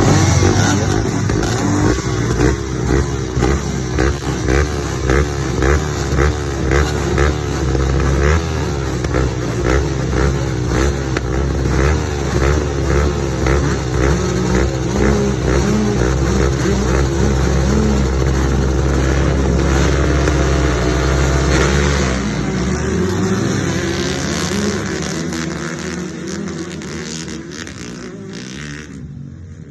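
Yamaha WR155R dirt bike's 155 cc single-cylinder four-stroke engine being revved in quick repeated throttle blips, rising and falling in pitch, then running more steadily. It drops to lower revs a little past two-thirds of the way through and grows fainter near the end.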